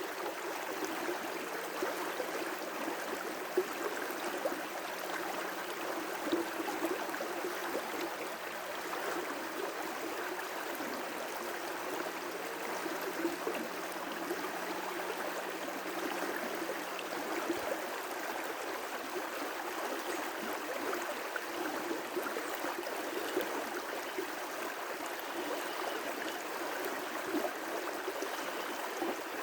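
River rapids: water rushing steadily over rocks, with small splashes now and then.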